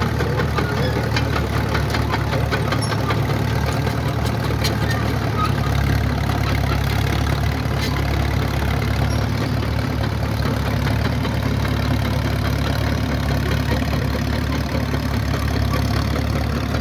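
Engine of antique heavy equipment idling steadily with an even, low hum.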